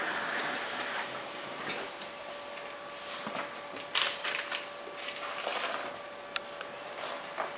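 Rustling and crinkling of packaging as an RC glider's accessory kit is handled and opened, with a louder crackle about four seconds in and a few sharp clicks. A faint steady hum runs underneath.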